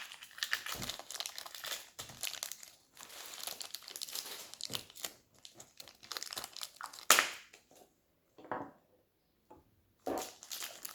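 Plastic toy packaging crinkling and tearing as blind packs are opened by hand. A sharp rustle comes about seven seconds in, then there is a pause of about two seconds before the crinkling resumes.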